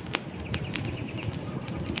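Wood campfire burning: a low, steady rush of flame with sharp crackles and pops from the logs, one loud pop just after the start.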